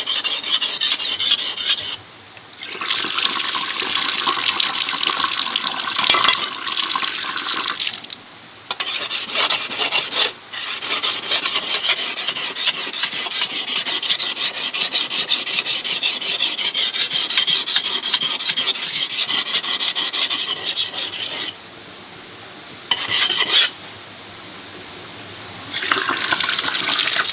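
A continuous rasping, scraping sound, something rough being rubbed or scraped over and over, in long stretches broken by a few short pauses.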